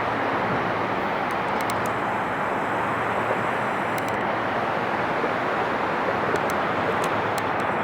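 Excursion train rolling through the crossing, a steady rumble and hiss of wheels on rails with a few faint clicks.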